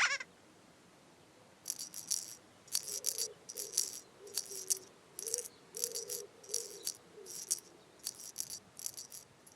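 A shaken rattle sounding in a steady rhythm, a dozen or so shakes at roughly one and a half a second, over a faint low wavering tone. It begins with a short falling bell-like chime.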